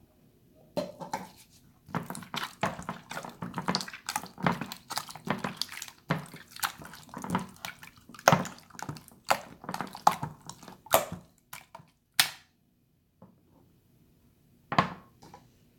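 Hands squeezing and poking a watery slime: a rapid run of wet squelches and clicks that stops about twelve seconds in, followed by a few faint ones and one last squelch near the end.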